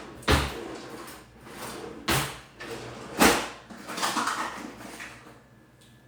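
A kitchen drawer opened and rummaged through: three loud knocks and a clatter of metal utensils, as when digging out measuring spoons.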